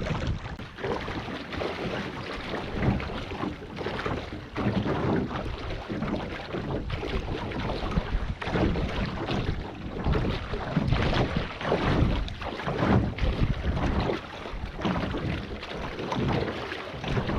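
Lake water splashing and lapping close to the microphone, in irregular surges, with wind buffeting the microphone.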